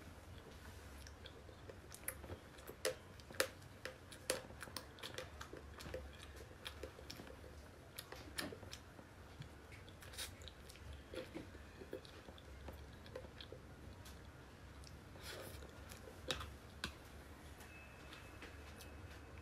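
Close-miked chewing and biting of cake: quiet, irregular wet mouth clicks, with a few sharper ones.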